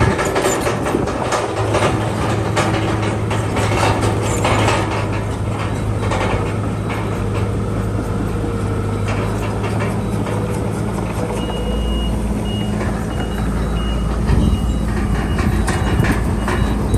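Crawler bulldozer's diesel engine running steadily under load, its steel tracks clanking. Past the middle, a high reversing alarm beeps in a steady repeating pattern for a few seconds.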